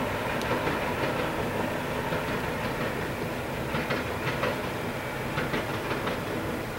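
A train running on the rails, a steady rumble with irregular clicks and clatter from the wheels.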